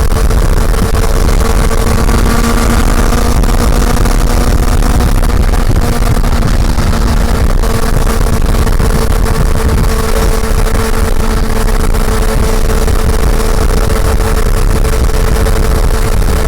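Honda CB400 Super Four's inline-four engine running at a steady speed while the bike cruises, its note holding almost level throughout, over a heavy low rumble.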